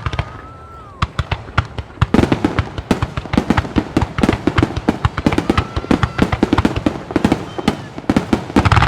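Ikebun starmine fireworks barrage: a rapid salvo of shell launches and bursts, several sharp cracks a second, starting about a second in. A whistling shell rises in pitch at the start and again midway, and a heavier boom comes near the end.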